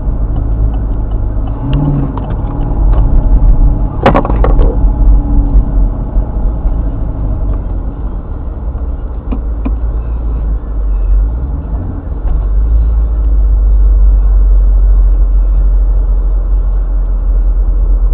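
Chevrolet Camaro SS V8 engine running low and steady at crawling speed, heard from inside the cabin. A sharp knock comes about four seconds in, and after a short rise in engine pitch past the middle it runs louder.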